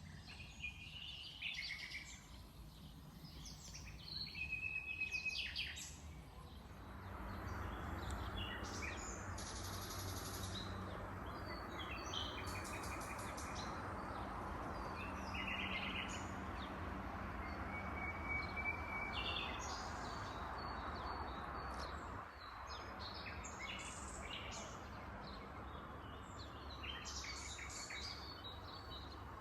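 Nightingale singing: a string of varied phrases of trills, whistles and fast repeated notes, each phrase broken off by short pauses. From about seven seconds in, a steady rush of background noise runs beneath the song.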